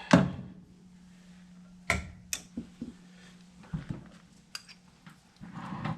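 A sharp click as the furnace's power is switched back on, then a faint steady electrical hum for about three and a half seconds, with a few light clicks and knocks scattered through.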